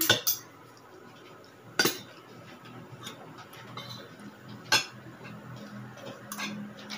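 Spoon and fork clinking and scraping against plates while eating, a few sharp clinks a second or two apart.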